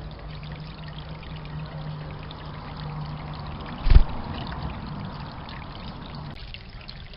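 Water trickling and pouring steadily into a bird bath, with a low steady hum underneath that stops about six seconds in. A single sharp thump about four seconds in.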